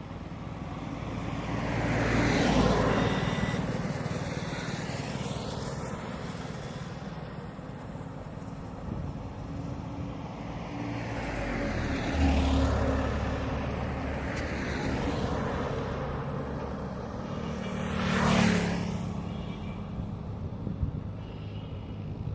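Road traffic passing close by: several vehicles go past one after another, each swelling and fading with tyre and engine noise. The loudest passes come about two and a half seconds in and again near eighteen seconds, with a heavy engine's low steady note setting in around twelve seconds.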